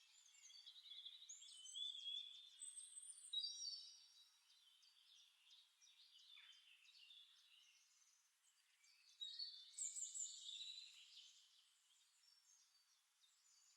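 Faint birdsong from a background nature-sound recording: several birds chirping and trilling, in a cluster over the first few seconds and again about nine seconds in.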